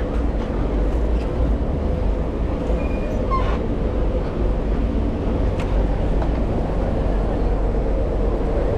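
Steady rumble of wind on a chest-mounted action camera and street traffic during a bike ride, with a brief high squeak about three seconds in.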